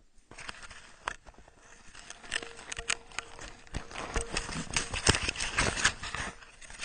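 Irregular crunching in snow that grows busier and louder over the second half.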